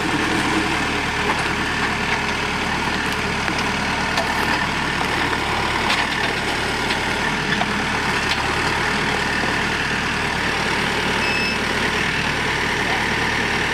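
Tractor engine running steadily, with a couple of light knocks about midway.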